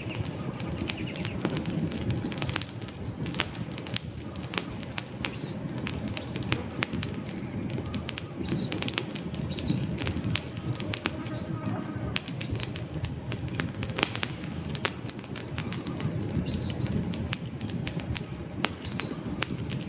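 Wood campfire burning, with frequent sharp crackles and pops over a low, steady rumble of flames. Short high bird chirps come through now and then.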